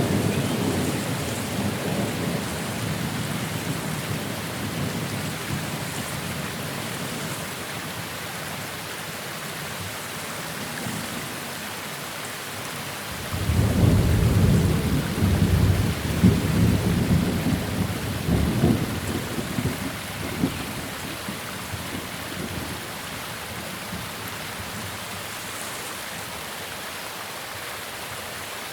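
Thunderstorm: steady rain hiss, with a roll of thunder dying away at the start and a second peal breaking suddenly about halfway through and rumbling on in waves for several seconds.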